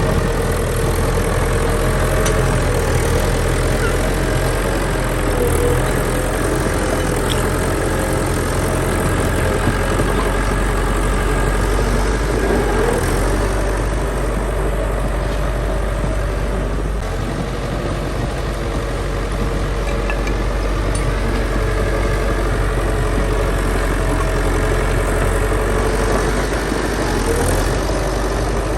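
Heavy earthmoving machine's diesel engine running steadily, its pitch shifting slightly now and then, with a brief drop in loudness a little past the middle.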